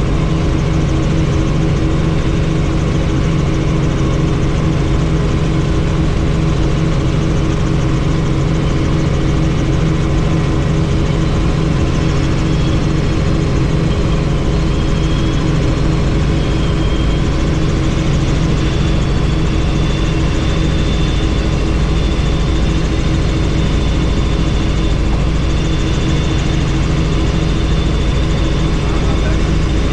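Helicopter in flight, heard from on board with the doors off: a steady drone of rotor and engine with rushing wind, and a faint high whine that comes in about halfway through.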